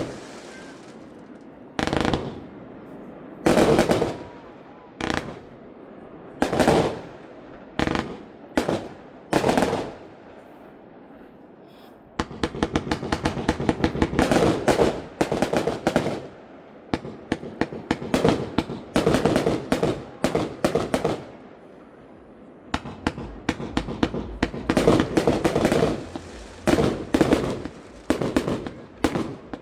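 Aerial fireworks going off: single loud bangs a second or two apart for about the first ten seconds, then, after a brief lull, long dense volleys of rapid crackling bursts.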